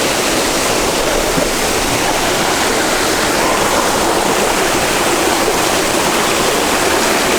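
Rushing water of a mountain stream and waterfall: a steady, even rush with no breaks.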